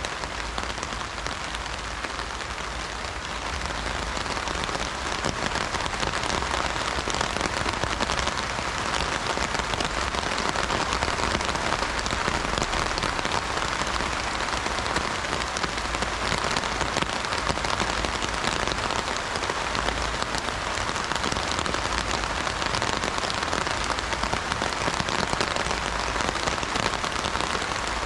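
Heavy rain falling on an umbrella canopy: a dense, steady hiss of countless drop impacts that grows slightly louder a few seconds in.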